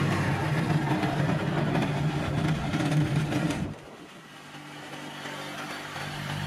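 Kubota tractor engine running with shifting pitch. Just under four seconds in the sound drops away suddenly, then builds back up near the end.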